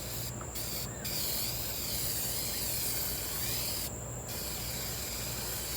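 Aerosol can of appliance spray paint hissing as it sprays: a couple of short bursts, then a long spray of about three seconds, a brief stop about four seconds in, and spraying again.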